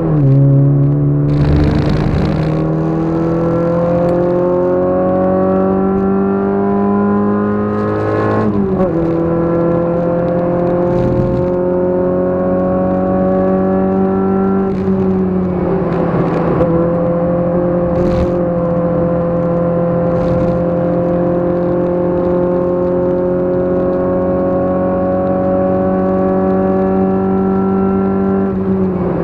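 Race car engine heard from inside the cockpit, accelerating hard through the gears: the revs climb, drop sharply at upshifts just at the start and about eight seconds in, then rise slowly in a high gear before easing off near the end. A few short knocks come through the cabin, the loudest about two seconds in.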